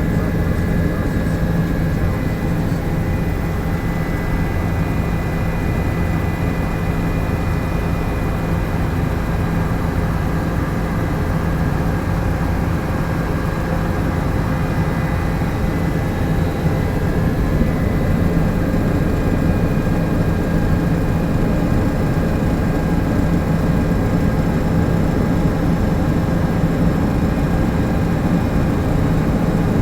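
Helicopter engine and rotor noise in flight: a loud, unchanging drone with a strong low hum and a few faint steady whines above it.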